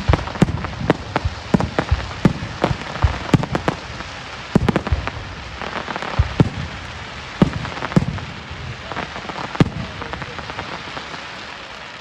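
Fireworks going off: a rapid run of bangs over a steady crackle. The bangs thin out after about eight seconds and the crackle dies away near the end.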